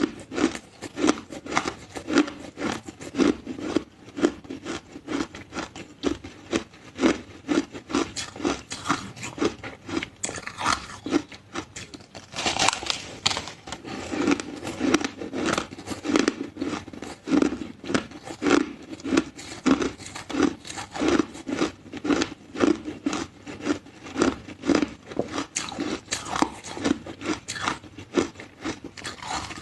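A person chewing and crunching ice close to the microphone, in a steady run of crisp crunches.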